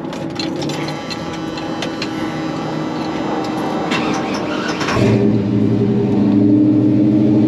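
Chevy C-10 pickup engine being cranked, catching about five seconds in and then running loud and steady with a deep rumble. It runs rough, which the owner puts down to a sticking carburetor.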